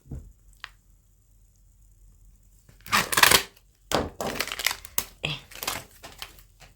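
Plastic packaging bag of small model parts being handled and crinkled: a loud rustle about three seconds in, then a run of shorter crackles.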